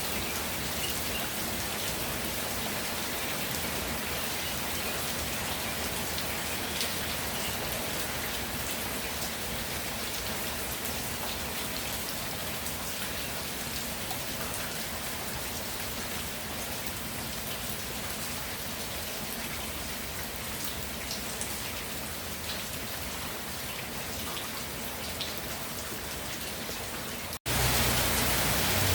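Steady rain falling and pattering on the ground. Near the end it cuts out for an instant and returns louder, with more low rumble.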